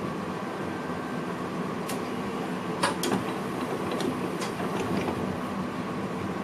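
NS VIRM double-deck electric train running, heard in the driver's cab: a steady rumble with faint steady tones, and a string of sharp clicks and knocks from about two seconds in.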